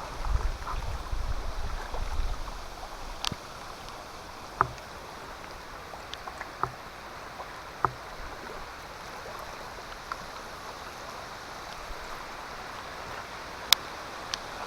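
Light rain falling steadily, with scattered single drips tapping sharply now and then. A low rumble comes and goes in the first couple of seconds.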